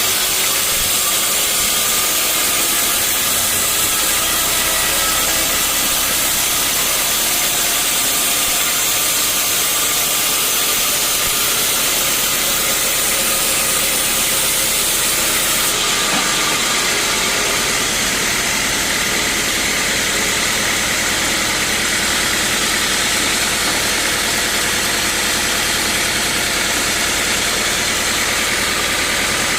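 Sawmill saw and machinery running steadily, a loud continuous mechanical noise with a strong hiss. About halfway through the hiss turns brighter and stays so.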